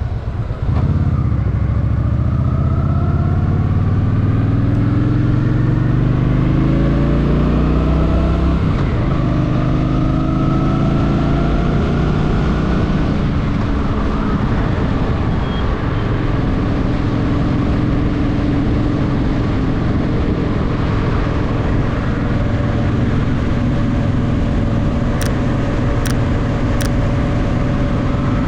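Honda Shadow VT750's V-twin engine accelerating hard with a rising note for about eight seconds, then a gear change and a gentler pull, settling into a steady cruise in the second half. Three short sharp clicks near the end.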